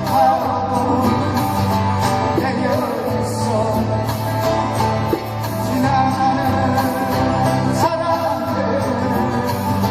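Live performance of a song: a voice singing over instrumental accompaniment with a steady low bass line.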